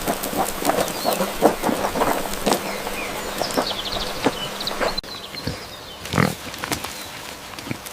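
Pigs grunting in quick short grunts, with small birds chirping in the background. About five seconds in the sound cuts abruptly to sparser, quieter ambience with a few louder calls.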